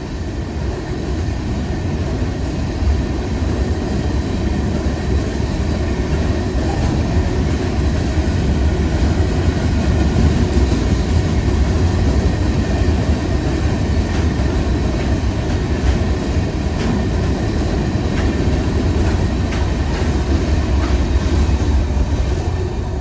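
Freight train cars rolling past on the rails, a steady rumble with light clicks of the wheels over the rail joints.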